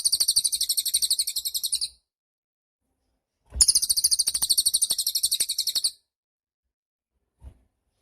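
A cililin, a small Indonesian songbird, singing two long, very high, rapid trills of about two and a half seconds each, with a pause between them.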